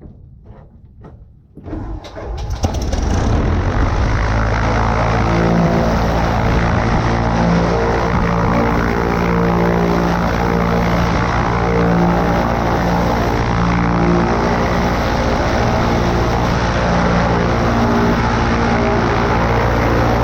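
Cessna 140A's air-cooled flat-four engine being started: a few clicks, then it catches about two seconds in and settles into steady running with the propeller turning.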